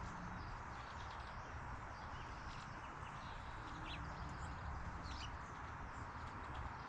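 Steady outdoor background hiss with a low rumble, and a few faint, short bird chirps scattered through it.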